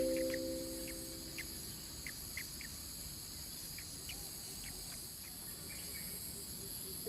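Steady high-pitched insect drone of forest ambience, with scattered short chirps. A held music chord fades out over the first two seconds.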